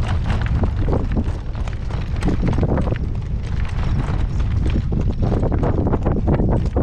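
A horse's hooves clip-clopping in a steady stream of beats, under heavy wind buffeting the microphone.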